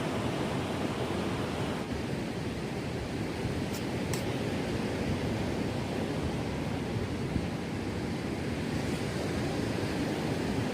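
Steady wash of sea waves on the beach mixed with strong wind.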